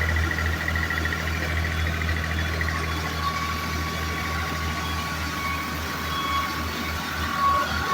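New Holland tractor's diesel engine running steadily at low revs, a deep steady hum with a thin whine above it.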